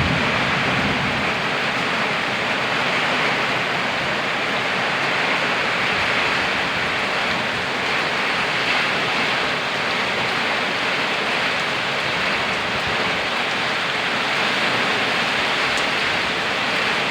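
Rain falling steadily: an even, unbroken hiss of a downpour.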